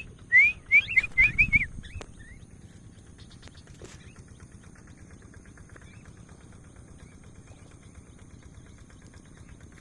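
A small pet falcon giving a quick run of short, rising, whistled chirps, about eight in the first two seconds, which then stop, leaving faint background hiss.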